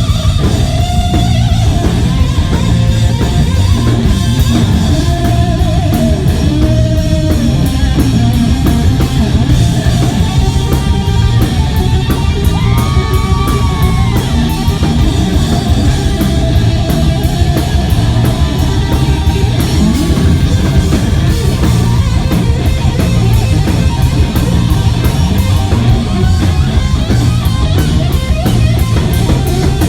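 Live hard rock band playing loudly: distorted electric guitar over a driving drum kit and bass. Guitar notes bend up and down near the middle, with no singing.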